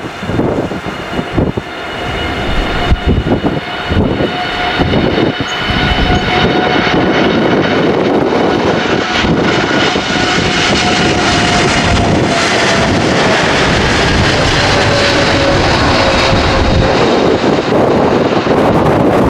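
Jet airliner passing close, its engines building to a loud, steady roar with a high whine that slides down in pitch as it goes by. Wind buffets the microphone in the first seconds.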